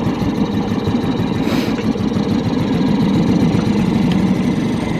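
Small dinghy outboard motor running steadily at low speed just after starting on its first test, its firing a fast, even rhythm. A brief hiss about a second and a half in.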